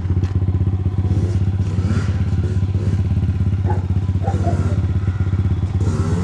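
Small single-cylinder off-road engine, a pit bike or quad, idling steadily with a fast, even beat.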